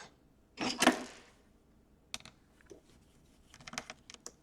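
Small plastic and metal laptop parts and tools being handled during disassembly: a brief scraping rustle about a second in, then scattered light clicks and taps.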